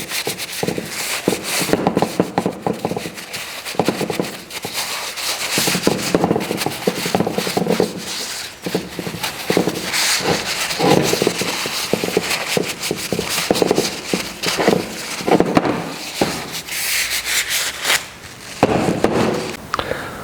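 A cloth wiping and rubbing over a freshly sandblasted brake caliper, cleaning it with isopropyl alcohol, in quick irregular strokes.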